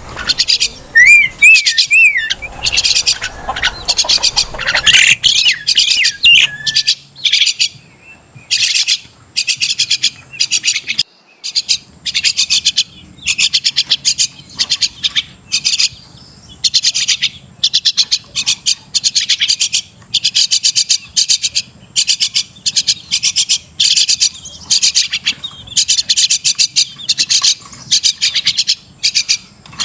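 Crested mynas calling: a few wavering, warbling whistles in the first few seconds, then rapid chattering notes in short bursts, one after another, for the rest of the time.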